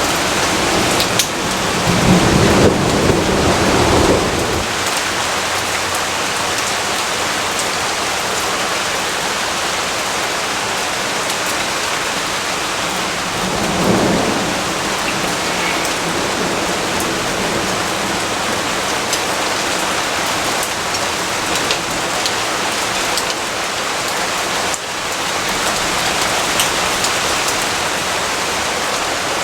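Steady rain falling, with a low rumble of thunder lasting a couple of seconds starting about two seconds in, and a shorter rumble about halfway through.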